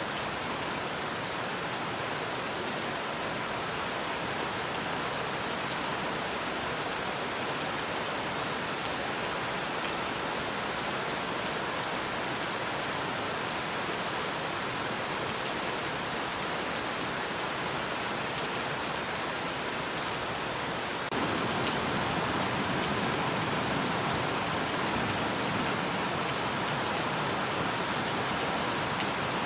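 Steady rain falling, an even hiss of many drops. About two-thirds of the way through it changes to a slightly louder, fuller rain with more low rumble.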